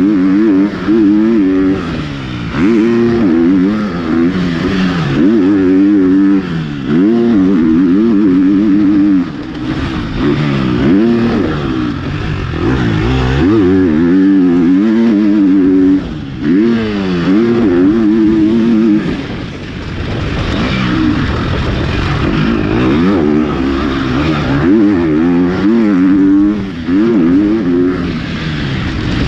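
KTM 250 SX-F motocross bike, a single-cylinder four-stroke, ridden hard on a dirt track. The engine revs up and falls back again and again through gear changes and on and off the throttle, with short dips every few seconds.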